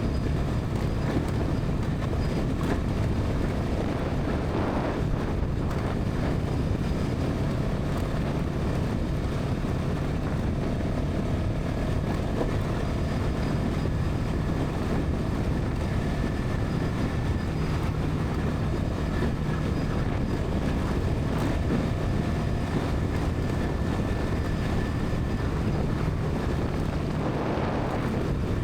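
Bajaj Pulsar NS200's single-cylinder engine and exhaust running at a steady highway cruise, its pitch holding level, mixed with wind rush on the microphone.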